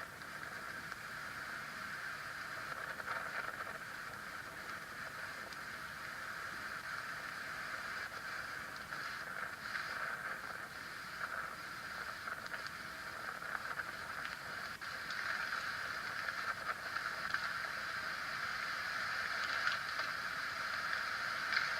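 Steady rushing noise, growing a little louder in the last several seconds.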